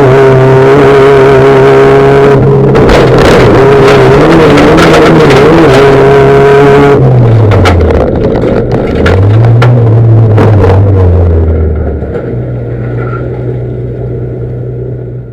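Rallycross car engines running at steady high revs. About seven seconds in the engine note drops, climbs again, then falls back and settles to a lower, quieter steady note that fades out near the end.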